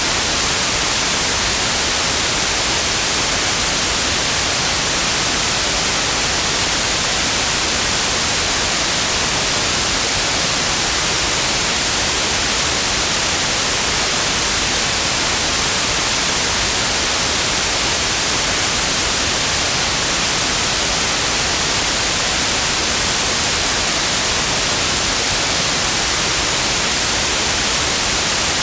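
Synthetic white noise: a steady, unchanging hiss, brightest in the high frequencies, with no other sound.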